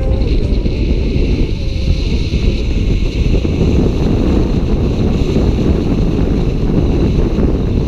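Wind buffeting the microphone: a loud, steady, rumbling roar of wind noise.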